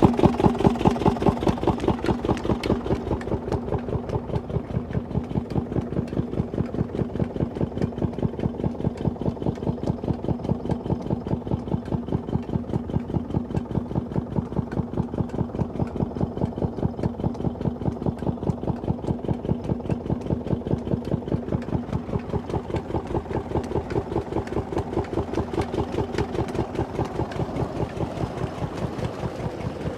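Water-pump engine running steadily with an even chugging beat, about four beats a second, a little louder in the first couple of seconds.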